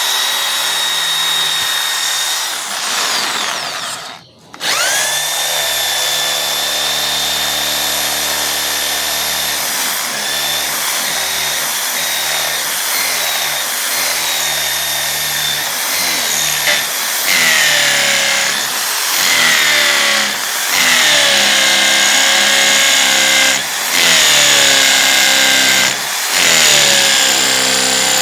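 WAP electric drill running at speed, drilling into a concrete column. Its motor whine drops briefly about four seconds in and then restarts. Later the pitch sags and recovers several times as the bit takes load.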